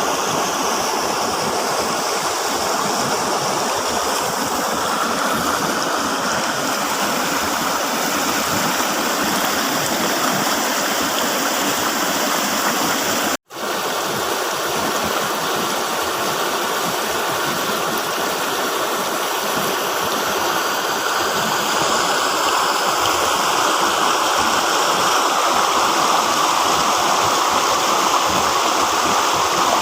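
River water flowing and rushing steadily. The sound drops out for an instant about halfway through, then carries on unchanged.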